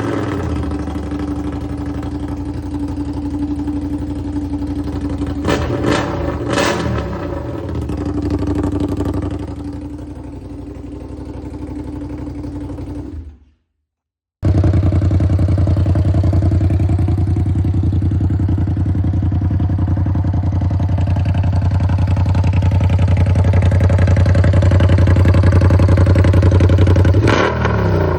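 Ducati Panigale V2S V-twin engine running through an open Arrow mid-pipe with no muffler. It idles with a couple of quick throttle blips about six seconds in. The sound cuts out briefly around halfway, then the engine returns louder at a steady idle, with a short rev near the end.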